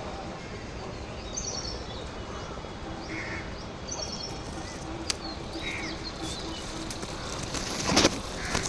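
Small birds chirping: two short runs of quick high chirps, about one and a half and four seconds in, with a few lower calls between, over steady outdoor background noise. A brief loud knock comes near the end.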